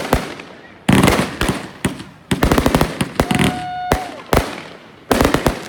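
Consumer fireworks going off: a series of sharp bangs and bursts of rapid crackling, with a steady whistle lasting under a second about three seconds in.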